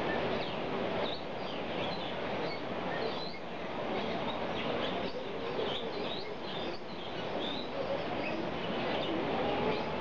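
Bali mynah calling amid many short chirps and whistled notes from birds, over a steady background din.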